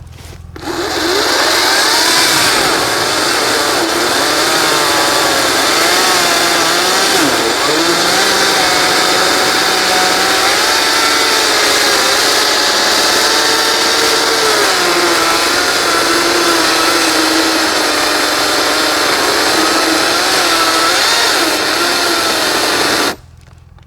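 Ryobi 40V HP brushless battery chainsaw cutting into a log, its motor pitch wavering as it bogs under load, then cutting out suddenly near the end. The owner suspects the motor is overheating and going into protection mode.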